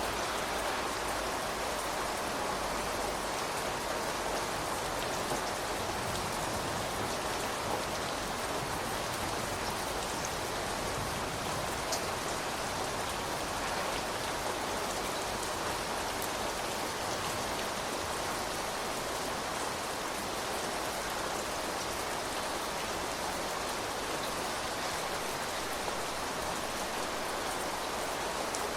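Steady rain falling, a continuous even hiss of drops hitting surfaces, with a few faint individual drop ticks.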